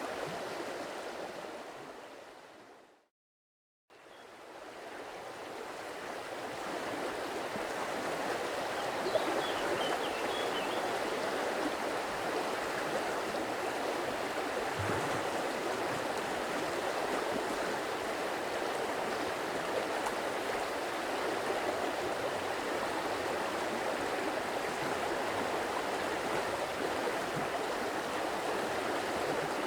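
Stream water rushing and babbling steadily over rocks. About two seconds in it fades out to a second of silence, then fades back up, as a recording loop restarts.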